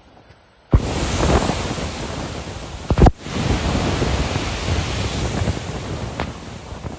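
Iguazu Falls: a loud, steady rush of falling water with wind buffeting the microphone, cutting in abruptly about a second in, with a couple of bumps and a brief dropout near the middle.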